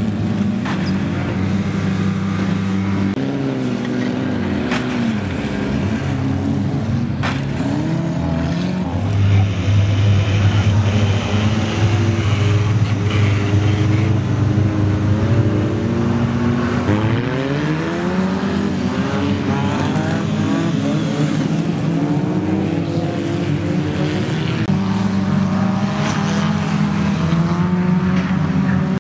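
Banger-racing cars' engines running and revving hard, their pitch repeatedly rising and falling as they accelerate and lift off, with a few sharp knocks in the first several seconds.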